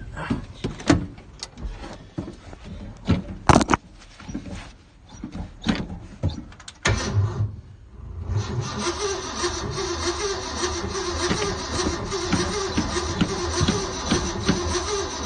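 A few clicks and knocks, then about eight seconds in the starter begins cranking the 1976 Ford F-150's 390 V8 steadily with an even rhythm, cold-soaked at 9°F after three weeks unused, without the engine catching.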